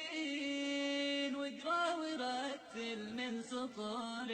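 A voice singing an Arabic religious song (nasheed), holding long notes with ornamented turns between them.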